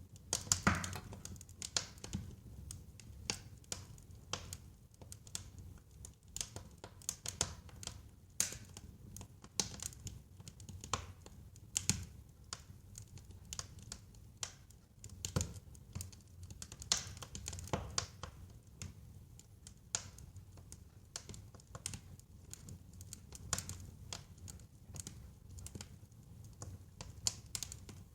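Wood fire in a fireplace crackling: irregular sharp pops and snaps over a low steady rumble of the burning, with a few louder pops scattered through.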